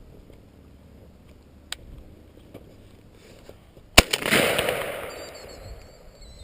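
A single shotgun shot about four seconds in, with its report echoing and dying away over about a second and a half.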